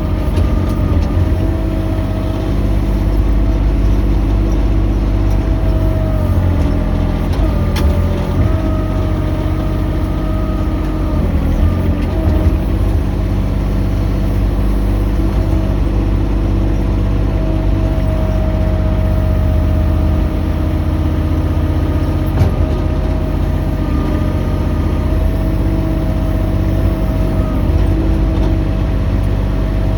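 Mini excavator's engine running continuously with a steady whine above it, the pitch dipping briefly a few times, around 7 and 11 seconds in and again later.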